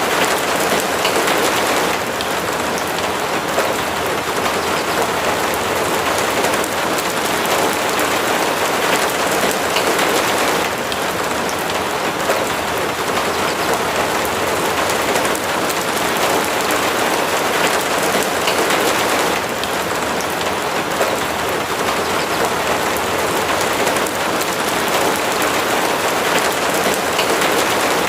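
Steady, heavy rain falling, a dense, even patter of drops that eases or swells slightly a few times.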